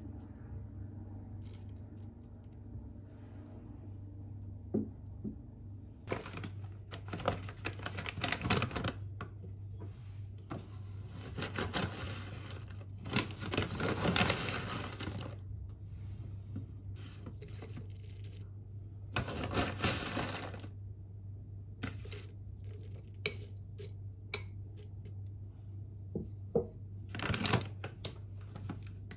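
Several bursts of rustling and light clinking handling sounds over a steady low hum.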